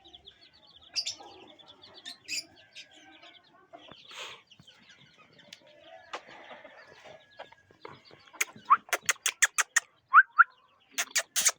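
Aseel chickens and chicks calling: soft repeated peeps and clucks, with a few short rising calls. About eight seconds in comes a quick run of sharp clicks, several a second, which is the loudest part.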